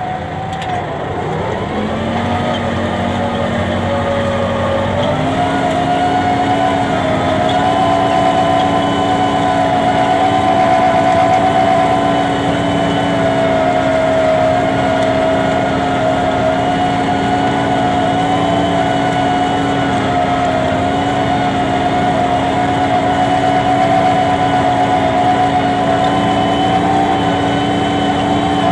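Tractor engine running: its pitch dips right at the start, climbs back in two steps over the first five seconds or so, then holds steady.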